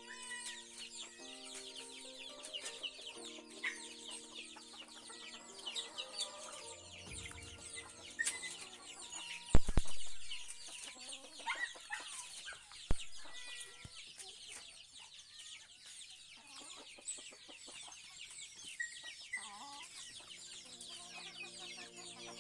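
Chickens clucking, over a dense chatter of short high chirps. There is a loud thump about ten seconds in and a sharp knock about three seconds later.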